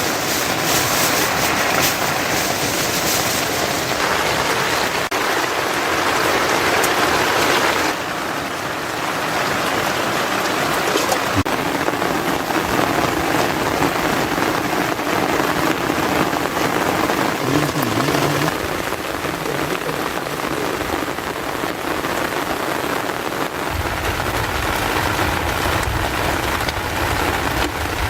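Heavy rain falling steadily, a dense hiss of drops on surfaces. A low rumble comes in near the end.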